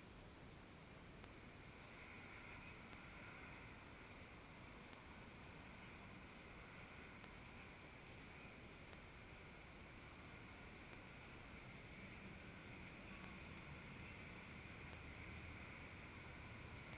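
Near silence: a faint, steady hiss of outdoor background noise.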